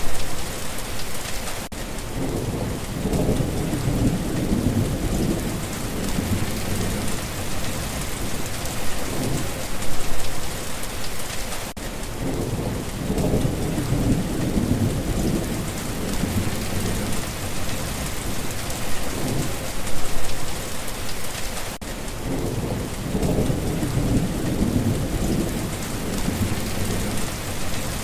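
Steady rain falling with a constant hiss, with low rolling thunder that swells and fades three times, each rumble lasting several seconds.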